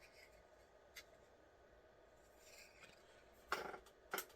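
Mostly near silence: faint room tone, with a single faint tick about a second in and two brief, louder noises near the end.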